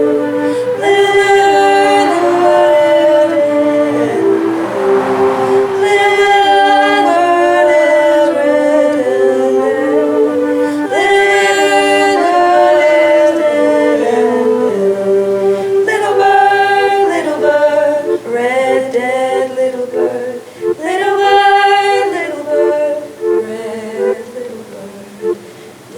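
A song sung by women's voices in layered harmony, in long held phrases, growing quieter toward the end.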